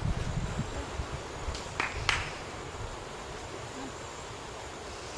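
Wind buffeting the microphone in gusts during the first second, then a steady hiss of wind, with two sharp clicks a third of a second apart a little under two seconds in.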